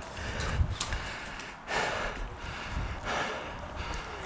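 A person breathing heavily close to the microphone, three breaths about a second and a half apart, over a low rumble.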